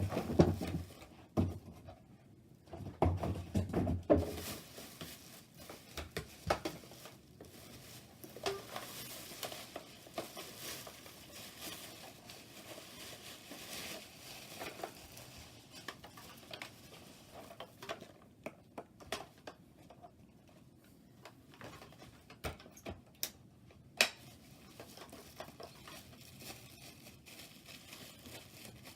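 Hoover Power Drive Pet vacuum cleaner being unboxed by hand: packaging and plastic parts handled, with scattered rustles, scrapes, knocks and clicks. The handling is busiest in the first few seconds, with a sharp click about two-thirds of the way through.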